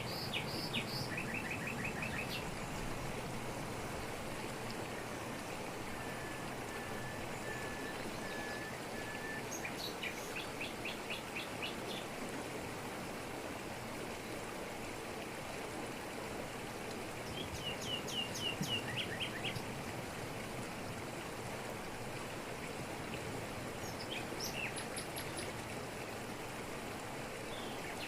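Waterfall pouring steadily over rocks, with forest birds singing over it: several rapid trilled phrases, and a run of about six short, even whistled notes about a quarter of the way in.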